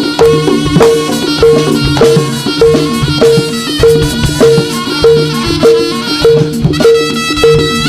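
Instrumental Javanese jaranan music: tuned metal percussion and drums play a brisk repeating pattern, one high note struck about every two-thirds of a second over a steady beat.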